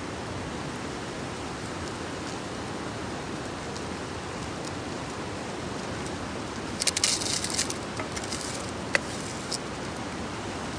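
Campfire burning with a steady rush, then a quick flurry of crackles about seven seconds in and a few single sharp pops after.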